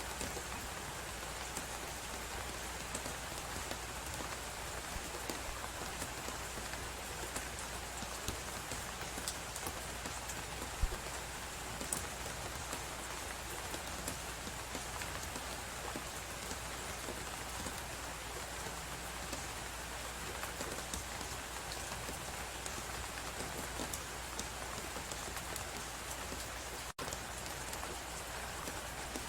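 Steady hiss of a blizzard mixed with a fireplace crackling: many small crackles, with a couple of louder pops near the middle. The sound drops out for an instant near the end.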